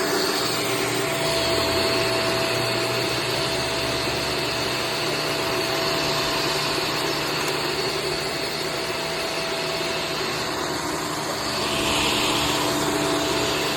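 Shark Stratos upright vacuum cleaner running steadily, its motor noise holding a constant pitch.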